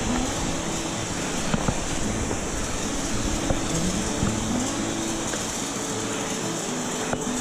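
Steady rush of a waterfall and its stream, a full even hiss with a few light clicks over it.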